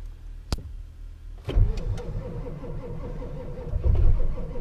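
A click, then the Ford 7.3 Power Stroke V8 diesel being cranked by its starter from about a second and a half in, without catching: a cold start on weak, dying batteries after the truck sat a month in the cold.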